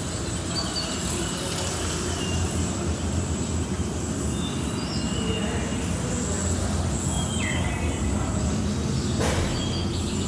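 Steady low rumble of ambient noise with scattered short, high chirps over it, and a brief sharp noise about nine seconds in.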